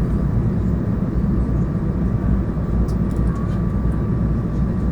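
Airbus A220's Pratt & Whitney PW1500G geared turbofan engines running steadily, heard inside the passenger cabin: a constant low rumble and air roar with a thin steady whine.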